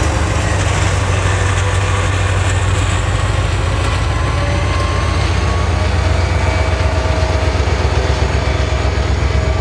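Diesel freight train passing close by: the locomotive goes past, then the freight cars roll by. It makes a steady, loud low rumble with faint high tones above it.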